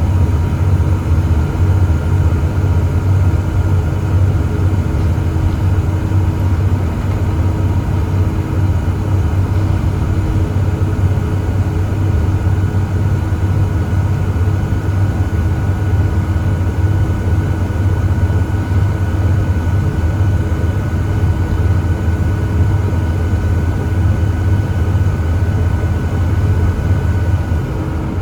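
Volvo B7TL double-decker bus under way with its 7.3-litre Volvo D7C diesel and ZF Ecomat six-speed automatic gearbox: a deep, steady engine drone with a high whine above it that rises slightly and eases off near the end.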